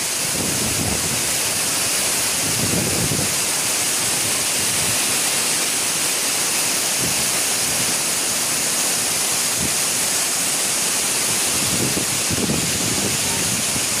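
A wide curtain waterfall of many thin streams spilling down a cliff and splashing onto the rocks and pool below, in a steady, unbroken rush of falling water.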